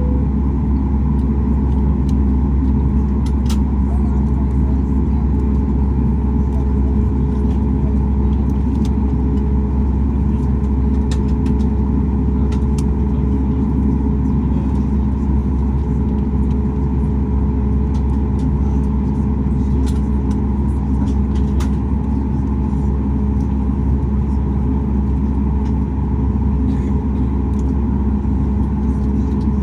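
Boeing 737 MAX 8's CFM LEAP-1B turbofan heard from inside the cabin, turning steadily during its start sequence: a constant deep rumble with a steady hum that neither rises nor falls.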